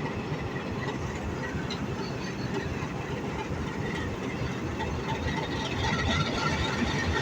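Diesel-hauled passenger train running with a steady noise, its HBU-20 diesel locomotive working as the train pulls out.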